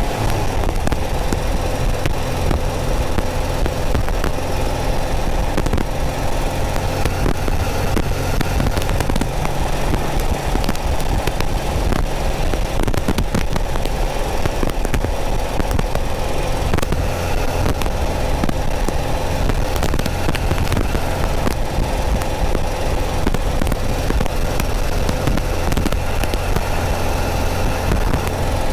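Porsche 914's 2.0-litre air-cooled flat-four engine running steadily at cruise, picked up by a microphone behind the rear window. A crackle of static runs over the engine sound.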